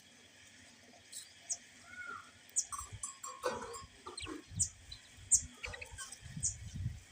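Parrots chirping and squawking in short, sharp calls that come thicker as they go on, over some low rumbling bumps.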